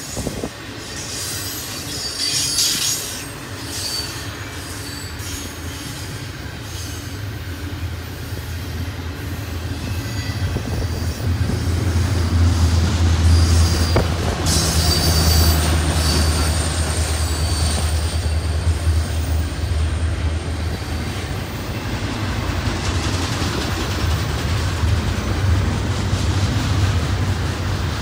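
Double-stack intermodal container cars rolling past on the rails: a steady low rumble and clatter of steel wheels, growing louder about a third of the way in, with high wheel squeal near the start and again around the middle.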